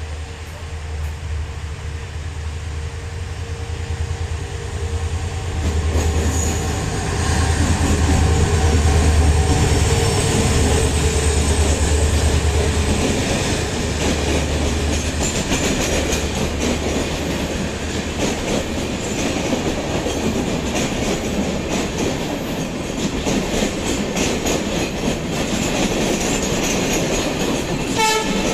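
Passenger train running past on the track, its wheels clattering over the rail joints with some squeal. A strong low hum from the locomotive dominates the first half, then fades, leaving the coaches' rolling clatter.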